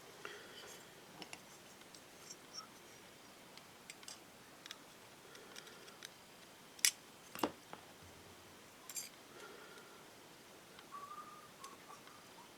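Small metal carburetor parts and hand tools clicking and clinking lightly as they are handled, with a few sharper clicks about seven seconds in and near nine seconds.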